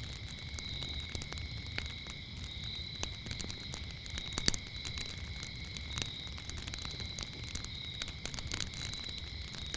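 Wood fire crackling with scattered sharp pops, the loudest about four and a half seconds in, over a low rumble. Crickets chirp steadily behind it in two high, unbroken tones.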